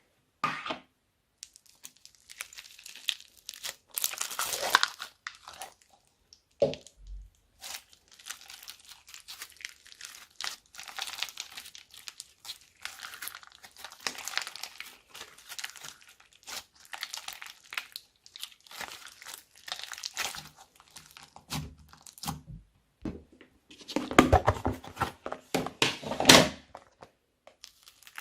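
Slime being squished, stretched and folded together by hand: a steady stream of small sticky clicks, pops and crackles, with louder, fuller squelching stretches about four seconds in and again near the end.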